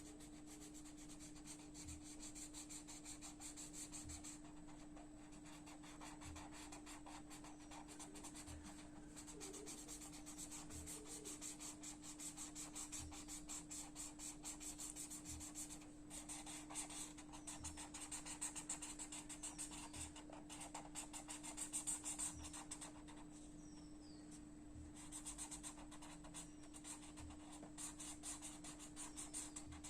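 Rapid, continuous scratchy strokes of a colouring tool rubbing back and forth on paper as an area is filled in with colour, over a steady low hum.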